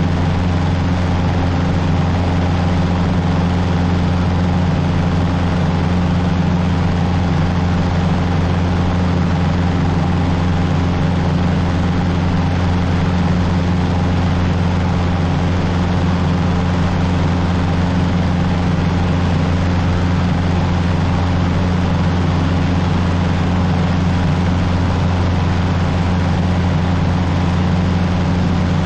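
Cessna 150's Continental O-200 four-cylinder engine and propeller droning steadily in flight, holding one even pitch throughout.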